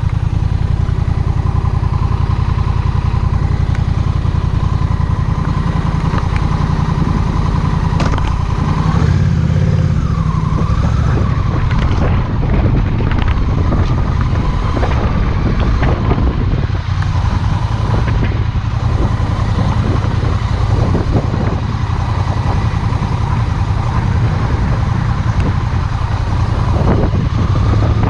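Honda Rebel 1100's parallel-twin engine running steadily and loud, with its note shifting about ten seconds in.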